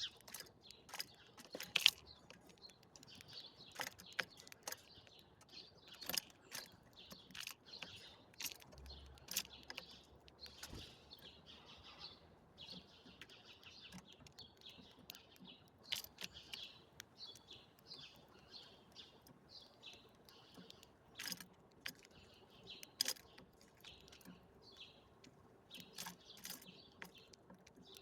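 A group of birds chirping and twittering continuously, with many sharp ticks and chips scattered among the calls.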